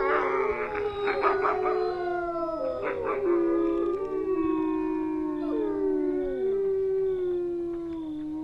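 A pack of wolves howling in chorus: several long howls overlap, each sliding slowly down in pitch. Short yips and barks break in near the start and again about three seconds in.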